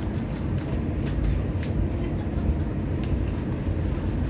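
Birmingham tram heard from on board: a steady low rumble with a few faint clicks and rattles.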